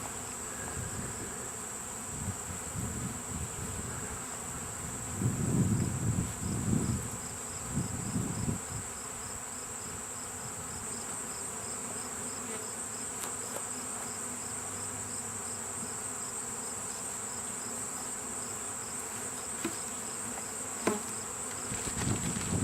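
Honeybee swarm buzzing, with a steady high-pitched insect whine above it and a few low bumps about five to eight seconds in.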